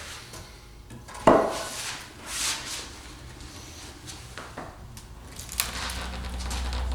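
Knocks and scrapes of wood and metal being handled, with one sharp knock about a second in. A low steady hum comes up near the end.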